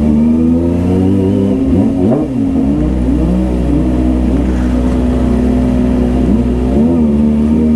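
Kawasaki ZX-25R's 250 cc inline-four engine running at steady, fairly high revs, with brief changes in pitch about two seconds in and again near the end.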